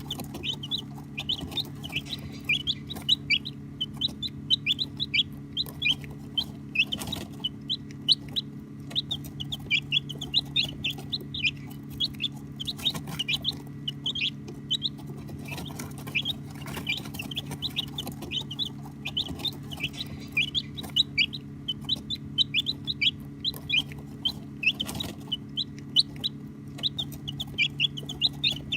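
Many baby chicks peeping without pause: rapid short high peeps, each falling in pitch, overlapping one another. A steady low hum runs underneath.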